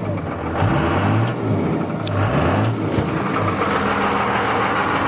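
2002 Ram's 5.9-litre Cummins inline-six turbo diesel idling, its pitch wavering for the first few seconds and then holding steady.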